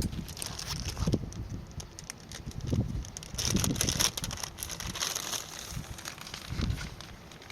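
Wind buffeting the microphone in irregular low gusts, with a patch of fine crackling or rustling in the middle.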